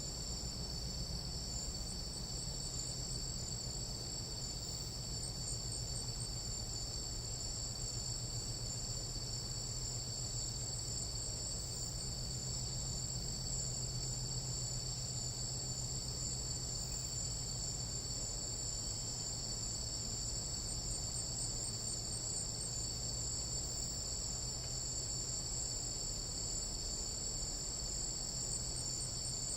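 Tropical night insect chorus: a steady, unbroken high-pitched trilling in several overlapping pitches, over a faint low hum.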